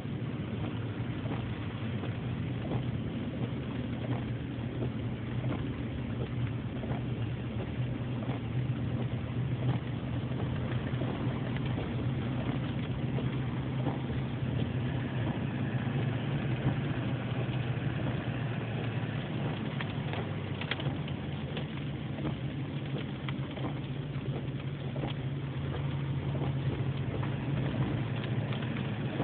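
Hailstones pelting down in a dense, irregular patter of ticks and knocks over a steady hiss, with a steady low hum underneath.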